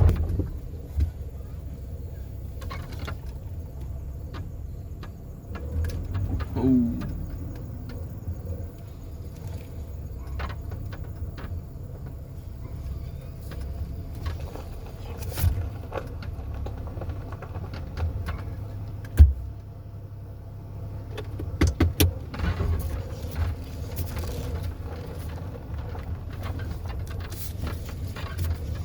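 A truck running with a steady low rumble, with scattered clicks and knocks over it.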